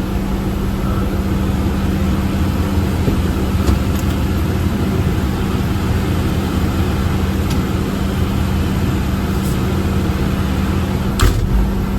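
Fire engine's motor running steadily with a constant hum over a low rumble. A few light clicks, and a sharper knock about eleven seconds in.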